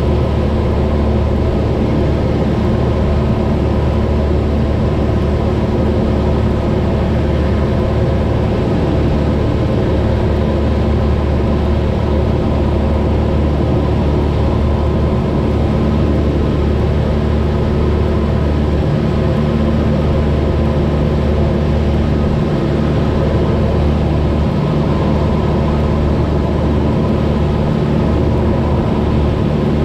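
Cessna 172's piston engine and propeller droning steadily in flight, heard from inside the cabin, with no change in pitch or loudness.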